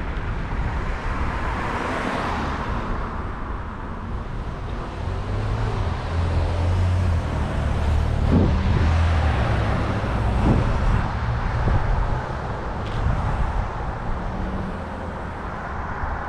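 City street traffic: motor vehicles running and passing close by, with a heavy low engine rumble in the middle as a large vehicle runs alongside.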